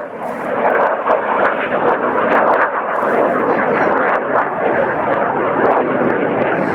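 Fixed-wing aircraft flying past, a loud, even engine noise that swells about half a second in and stays loud.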